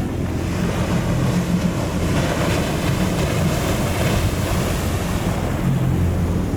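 Ocean surf breaking and wind buffeting the microphone, with a steady low rumble underneath.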